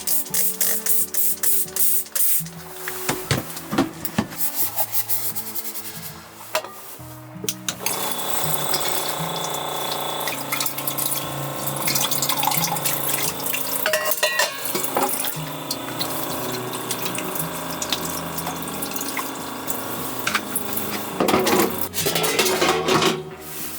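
Water running steadily, as from a tap, under background music.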